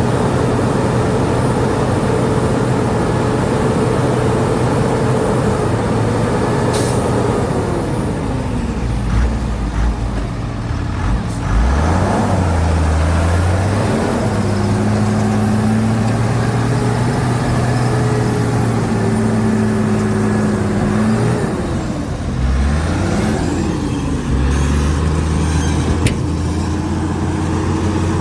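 Heavy diesel engine of earthmoving machinery running steadily, its pitch dropping and rising as it changes speed several times, about eight seconds in and again past twenty seconds.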